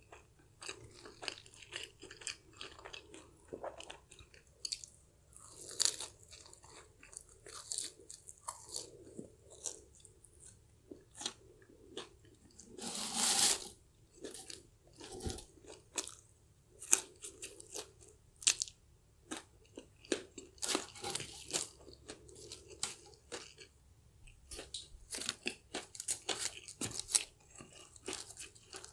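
Close-miked crunching and chewing of crispy fried chicken coating and fries, in short irregular crunches, with one louder, longer crunch near the middle.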